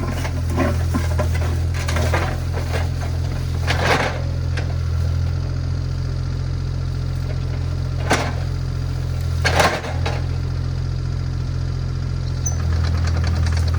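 Diesel engine of a compact excavator or skid steer running steadily under work, with a few sharp knocks or cracks over it, and the engine getting louder near the end.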